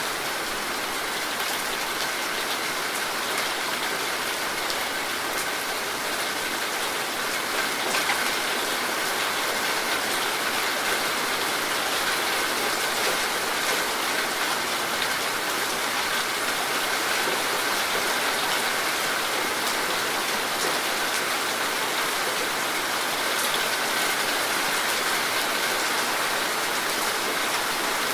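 Steady heavy rain falling, an even hiss with an occasional sharper drop hit standing out.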